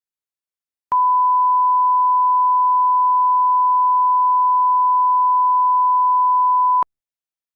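One long, steady electronic beep at a single unchanging pitch, about six seconds long, starting and cutting off abruptly.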